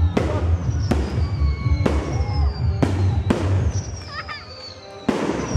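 Fireworks shells bursting overhead with sharp bangs, about six in all, each trailed by a high whistle falling in pitch. After a brief quieter lull, a loud burst comes near the end.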